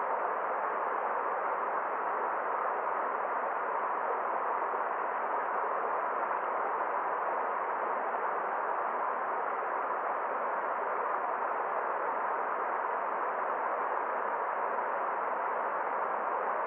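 Forest stream water rushing in a steady, unbroken flow.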